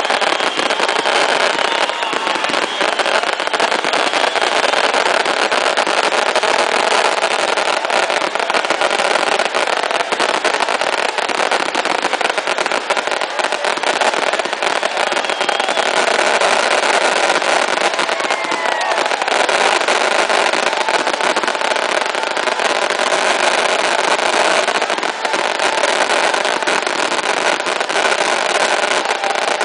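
A fireworks display: a dense, steady hiss and crackle of pyrotechnics, with a few short whistles rising and falling.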